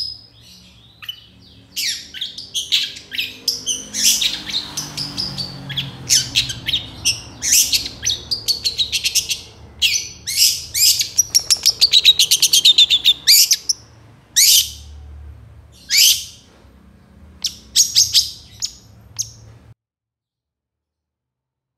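Long-tailed shrike (cendet) singing a fast, varied song of sharp chattering notes and rapid trills, in runs with short pauses. It breaks off abruptly near the end.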